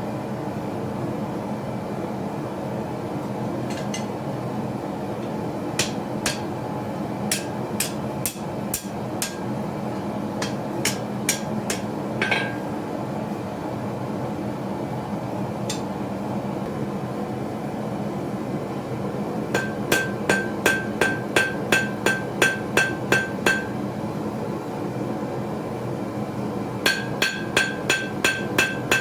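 Forging hammer striking a knife blank on an anvil: a few scattered blows, then quick runs of ringing strikes, about three a second, past the middle and again near the end. A steady hum runs underneath.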